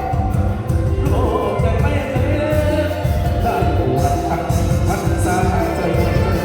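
Live mor lam band music, with a heavy, steady bass beat and a wavering melody over it.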